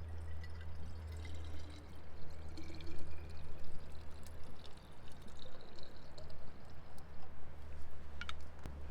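Liquid being poured into a small vessel, its pitch rising as the vessel fills, followed by a few light clinks near the end.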